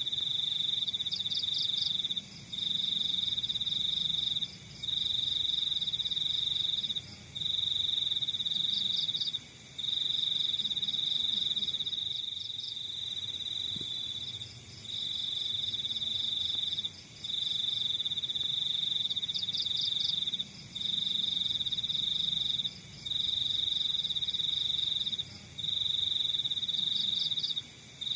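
Crickets trilling: one loud, high, steady trill comes in runs of two to three seconds with short pauses between them. Fainter bursts of rapid chirping from other crickets come a few times over it.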